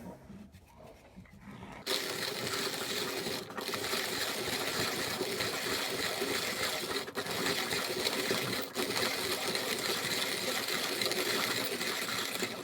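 Early-1930s Peter Dienes (PeDe) manual conical burr coffee grinder being hand-cranked, its burrs crunching coffee beans on the finest setting. The grinding starts about two seconds in and runs steadily, with three momentary breaks.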